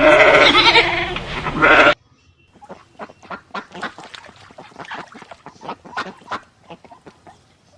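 Loud, wavering animal calls for about two seconds, cut off abruptly, followed by a faint, rapid run of short chirps and clicks.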